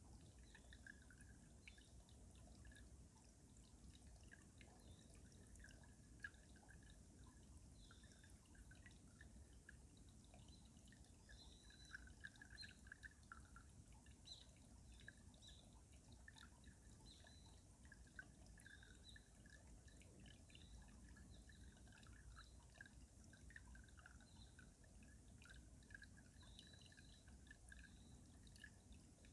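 Faint stream water running beneath ice, a steady scatter of small drips and gurgles with brief busier stretches.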